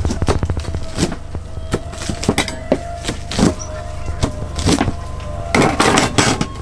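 Pizza being cut in a food truck: irregular knocks and clicks of a cutter against a board, over a steady low hum.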